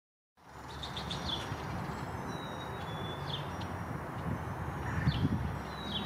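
Small songbirds giving short high chirps, a quick cluster near the start and then single chirps every couple of seconds, with a couple of thin held whistles between them, over a steady low background rumble.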